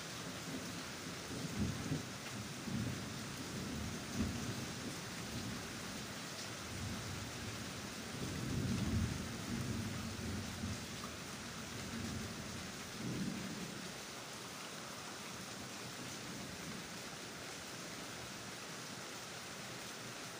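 Steady hiss of rain falling, with a series of low rumbles over the first two-thirds, the strongest about nine seconds in.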